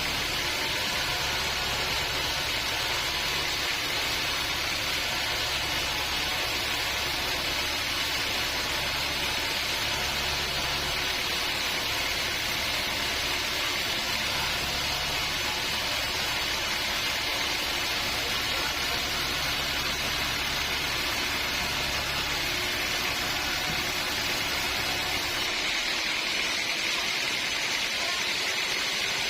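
Portable band sawmill running, a steady hiss over the low hum of its motor. Near the end the hum drops away and only a narrower hiss is left.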